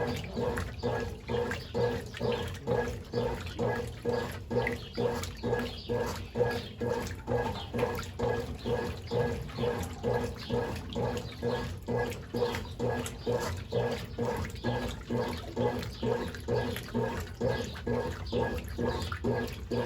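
Brastemp Ative 11 kg BWL11 washing machine agitating a load: water sloshes back and forth in an even rhythm, a little over one stroke a second, over a steady motor hum. The owner calls the agitation bad.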